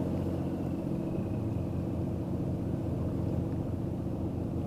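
Engine running steadily at low revs: a low hum with a fast, even throb.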